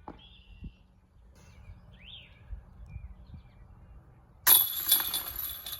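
A couple of short bird chirps, then about four and a half seconds in a sudden loud metallic jangle that rings on and fades: a disc golf disc hitting the basket's chains, the par putt going in.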